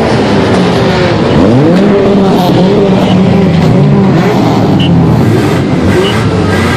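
Many car engines revving at once in a loud, continuous mix of overlapping engine notes rising and falling, with one engine revving sharply up about a second and a half in.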